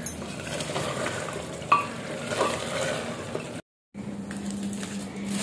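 A pot of chicken biryani sizzling and hissing on the stove as it cooks on dum, with a few faint light clicks. The sound drops out for a moment about two-thirds of the way through.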